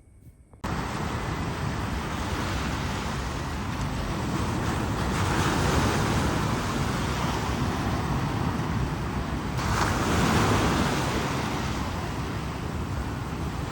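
Rough sea: surf washing in with wind on the microphone, starting suddenly less than a second in, with two swells of louder surge, one around the middle and one near ten seconds.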